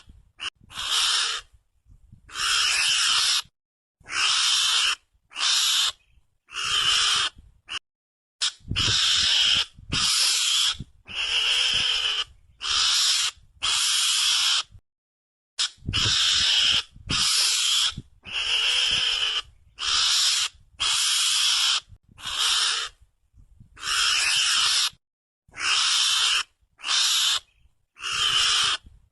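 Mongoose calls played as a hunting lure: a steady series of harsh, hissy screeches, each half a second to a second long, about one a second, with dead silence between them.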